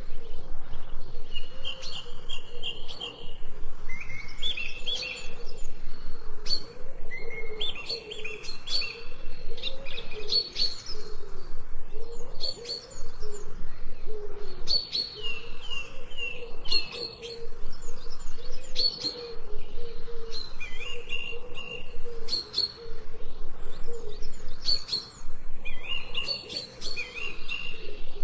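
Songbirds chirping and twittering in quick repeated phrases, with a lower wavering tone running underneath.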